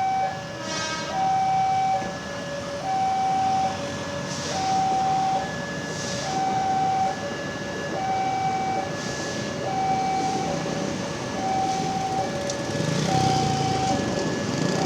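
Railway level-crossing warning alarm sounding: an electronic signal alternating steadily between a higher and a lower tone, about one cycle every two seconds. A rumble and hiss grow louder about two seconds before the end.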